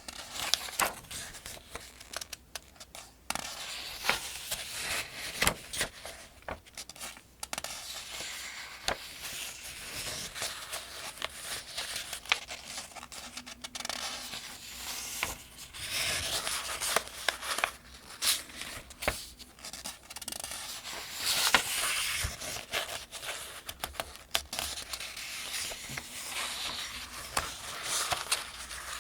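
Pages of a paperback Farmers' Almanac being turned one after another, each turn a crisp rustle and flick of thin newsprint-like paper, with sliding and rubbing between turns.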